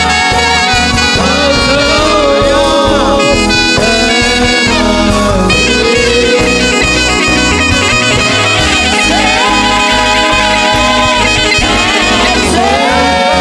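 Live gospel worship band playing an instrumental passage, with a saxophone carrying a gliding melody over keyboard, bass and drums.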